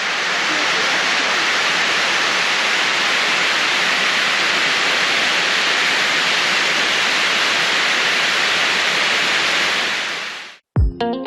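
Steady rushing of falling water from a waterfall, even and loud, cutting off abruptly near the end. Electronic music with a heavy beat starts just after it.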